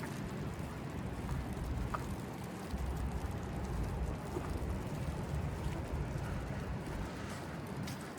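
Snowy city street ambience: a low rumble of traffic that swells about three seconds in and eases off near the end.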